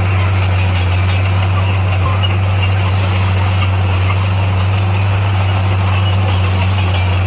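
Heavy earthmoving machine's diesel engine running steadily, a constant low drone with no change in speed.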